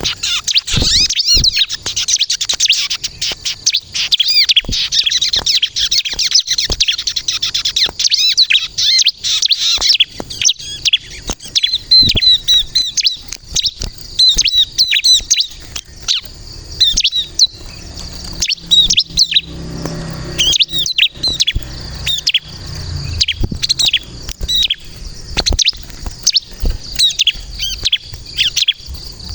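Bar-winged prinia (ciblek) singing vigorously: rapid, high-pitched chirping trills, packed close together for the first ten seconds or so, then breaking into sharp separate chirps with short gaps.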